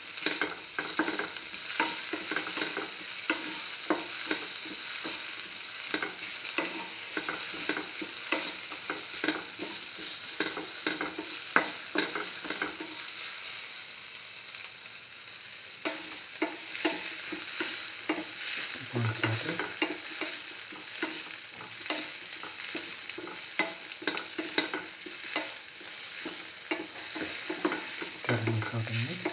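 Chopped shallots and tomato sizzling in oil in a pan while a spatula stirs them, scraping and knocking against the pan again and again. The stirring pauses for a few seconds about halfway through, leaving only the sizzle.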